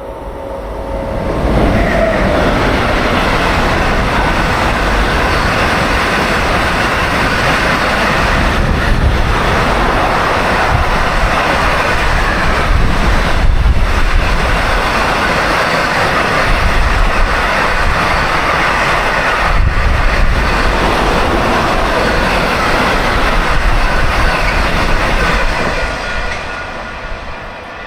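A train passing through on the rails, its wheels and cars running loud and steady for over twenty seconds. It builds up quickly about a second in and fades near the end.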